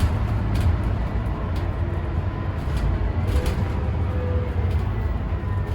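Scania K320UB bus's diesel engine running steadily with a low rumble and a faint whine, with scattered light rattles.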